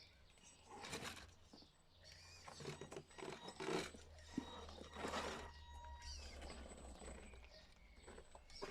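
Radio-controlled scale trucks' electric motors running in short, irregular bursts of throttle, over a steady low hum.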